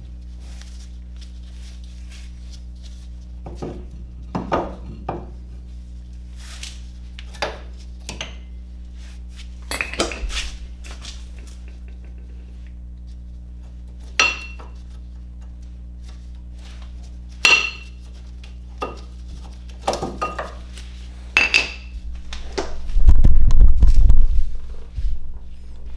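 Metal tools and car parts being handled during a brake pad job: a dozen or so separate clinks and knocks, several ringing briefly, over a steady low hum. Near the end, a loud low rumbling thud lasts over a second.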